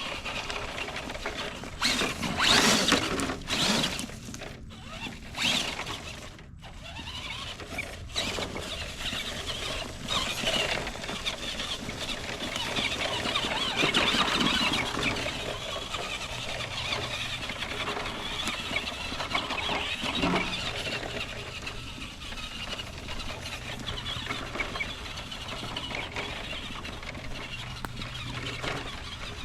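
Electric drivetrain of a 1:10 solid-axle RC monster truck, its brushed motor and gears whining as it is driven off-road. The whine comes in surges with the throttle, loudest in a few seconds near the start and again around the middle.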